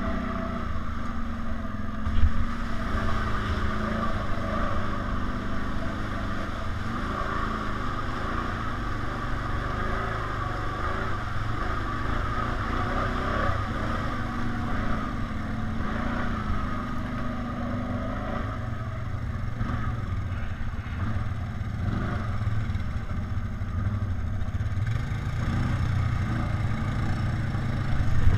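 ATV engine running under way off-road, its pitch wavering up and down with the throttle, over steady rumble and ride noise, with a brief louder jolt about two seconds in.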